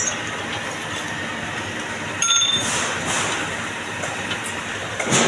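Metal-turning lathe running with a steady mechanical noise. About two seconds in there is a brief metallic ring with squealing tones.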